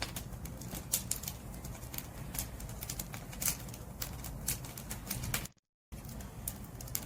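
Wood fire burning: firewood crackling and popping in quick irregular snaps over a low steady rumble. The sound cuts out completely for about half a second, about five and a half seconds in, then resumes.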